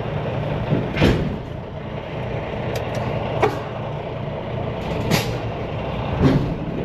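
Semi truck's diesel engine running steadily, with about four sharp knocks or clunks spaced a second or two apart.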